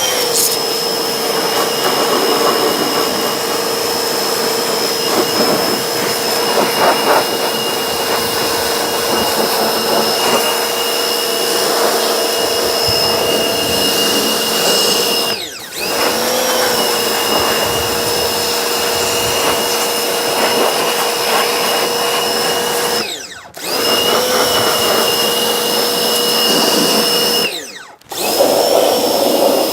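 Electric pressure washer running steadily as its jet sprays, the motor cutting out for a moment three times and starting up again.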